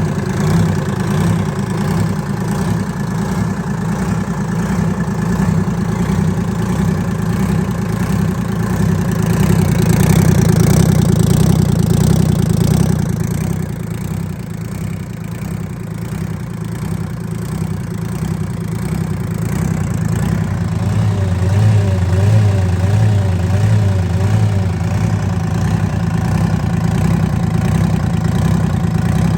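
Detroit Diesel 6V53 naturally aspirated two-stroke V6 diesel running on a test run, mostly at a steady idle. It grows louder for a few seconds just before the middle, then drops back suddenly to idle.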